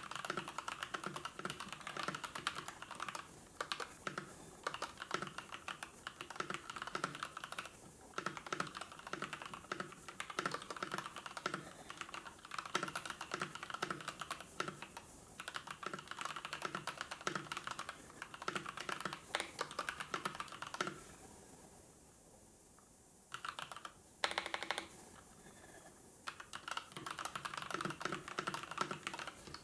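Typing on a computer keyboard: a steady stream of quick key presses that stops for a few seconds about two-thirds of the way through, broken by a couple of short bursts, then carries on.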